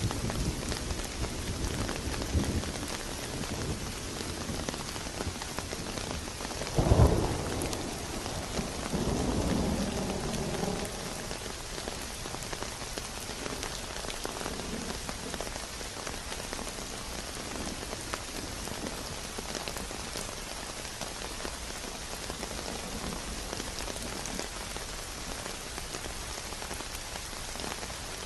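Steady heavy rain falling on a surface, with a clap of thunder about seven seconds in that rumbles on for a few seconds after.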